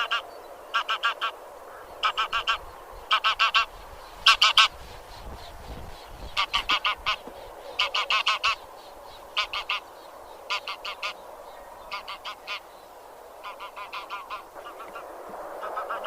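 A flock of Anser geese honking: short clusters of three to five quick, nasal calls, one after another, over a constant background of flock chatter.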